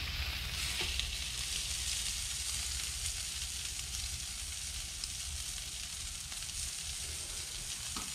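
Egg-and-flour-coated fish burger patties sizzling steadily in butter on a ridged grill pan, with a few faint clicks.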